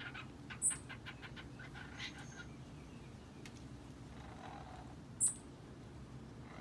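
Cockatiel chattering in a quick run of short notes, with two brief, very high chirps, the loudest sounds, about half a second in and about five seconds in.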